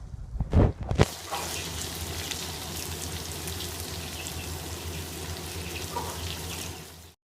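Chicken and okra masala sizzling and crackling in a cooking pan, with two loud knocks about half a second and a second in; the sound cuts off suddenly near the end.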